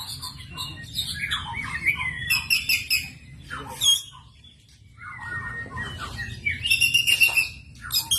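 White-rumped shama (murai batu) singing: a run of varied whistled and chattering phrases, pausing briefly about four seconds in before resuming.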